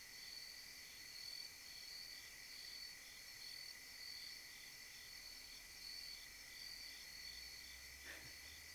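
Faint, steady chorus of night insects such as crickets, chirping in an even, pulsing rhythm.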